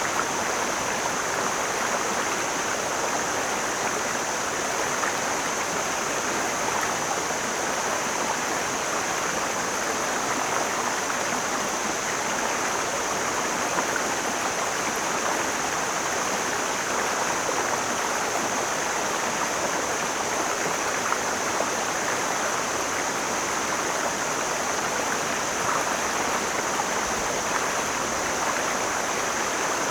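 Mountain stream flowing, a steady rush of water with no breaks, over a constant thin high hiss.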